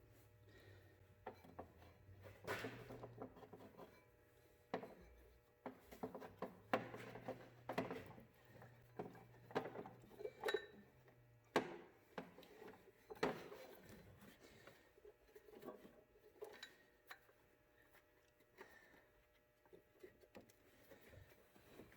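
Faint, irregular clicks, knocks and rubbing of hands and metal parts as a drive belt is worked around the alternator and crankshaft pulleys in an engine bay, with a low hum that stops about halfway through.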